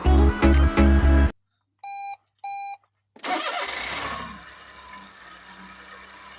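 Music cuts off, then two short electronic beeps, and about three seconds in a kei car's engine is started and settles to a steady idle. The engine has a misfire that lit the engine warning light, which the owner puts down to a spark plug.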